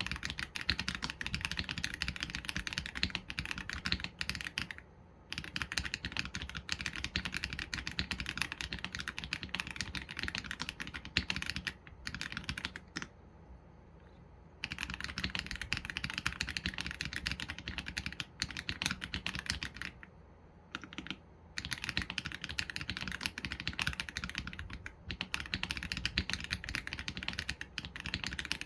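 Continuous typing on an AULA F87 Pro mechanical keyboard with Leobog Graywood V3 linear switches and PBT keycaps: rapid, even keystrokes in long runs, broken by brief pauses.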